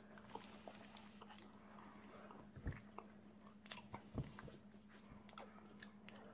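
Faint chewing of a macaron close to the mouth: soft crunches and small mouth clicks, with two louder crunches near the middle.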